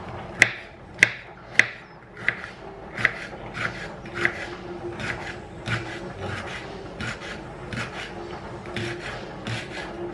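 Three sharp knocks, then a steady run of rubbing or scraping strokes, about three every two seconds.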